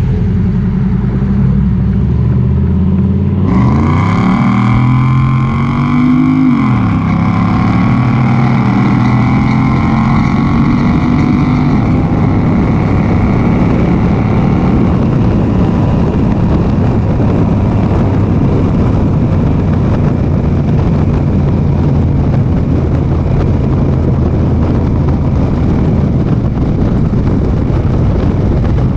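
1993 Pontiac Trans Am's 5.7 L LT1 V8 running through BBK headers, no catalytic converter and a Magnaflow muffler. It idles, is revved once starting about four seconds in, drops back to idle after about three seconds, and idles steadily for the rest.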